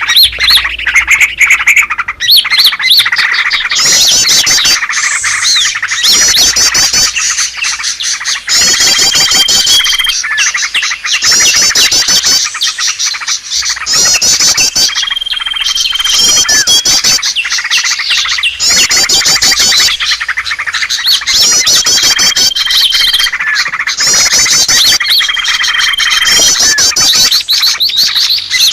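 Bird-lure recording of many small birds chirping and calling at once, a dense and loud chorus of rapid chirps and trills. A short, steady, high whistle recurs every five or six seconds as the pattern repeats.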